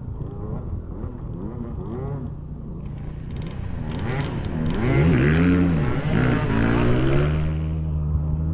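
Enduro dirt bike engine revving up and down in repeated short blips, louder around the middle with a hiss over it, as the rider works the bike through a hard muddy section.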